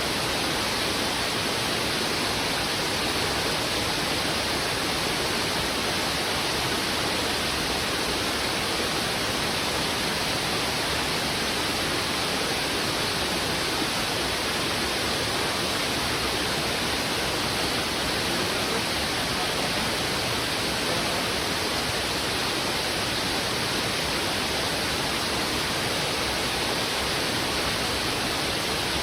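River in heavy flow, its strong current rushing over rocks: a steady, unbroken wash of water.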